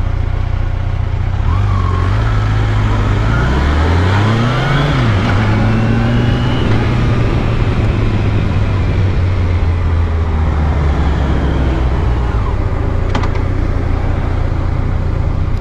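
Motorcycle engine running while riding, heard through a helmet camera with wind and road noise. The engine note rises a few seconds in, then falls back and holds steady.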